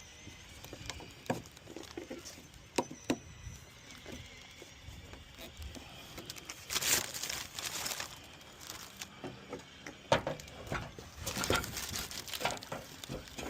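Sharp plastic clicks and knocks with stretches of scraping and rustling as a replacement headlight assembly is worked into place in a 2009 Honda Civic's front end.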